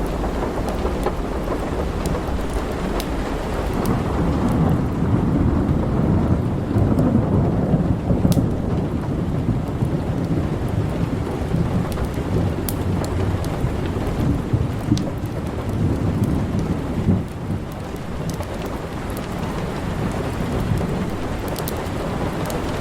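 Steady rain with a long, low roll of thunder that swells about four seconds in and dies away near the end. Scattered sharp crackles from a wood fire sound over it.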